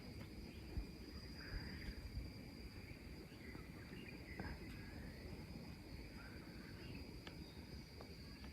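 Faint night-time forest insects: a steady, high-pitched cricket trill, with a few short, faint calls and small clicks over it.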